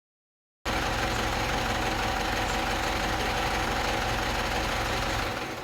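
A car's 2.4-litre engine idling steadily with diesel in the sump, run to flush out the old oil and sludge. The sound starts abruptly about half a second in and drops away near the end.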